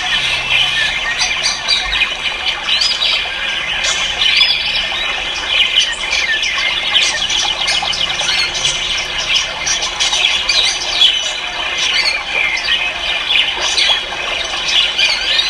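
Many caged ornamental birds calling at once: a dense, continuous din of overlapping shrill chirps and squawks.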